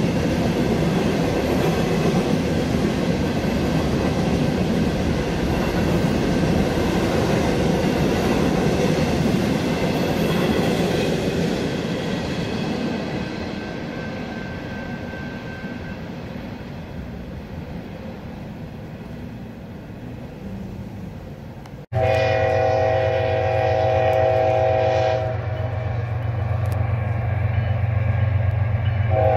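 Freight train of double-stack container cars rolling past, its rumble fading as the last cars go by. After an abrupt change, a diesel locomotive horn sounds a blast of about three seconds, then starts another near the end, over a steady low engine drone.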